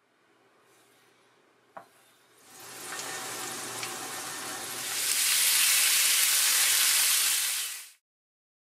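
Sliced garlic frying in hot oil in a pan, sizzling. It starts faint with a single click about two seconds in, then the sizzle swells, grows louder past the middle and cuts off suddenly near the end.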